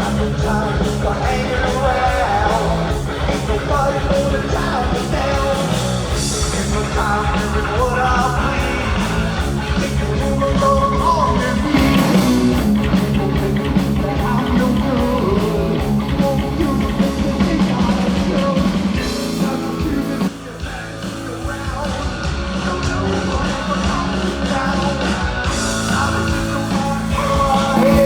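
Heavy metal band playing live: distorted electric guitar, bass and drums, with a brief drop in level about twenty seconds in.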